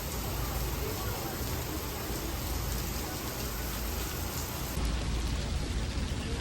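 Steady hiss over a low rumble, with a slight change in character about five seconds in.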